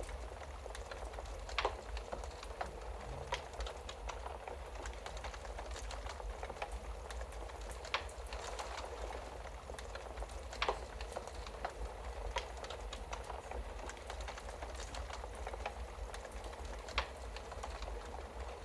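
Wood fire crackling in a fireplace: a steady hiss and low rumble with frequent small ticks and about four sharper pops spread through.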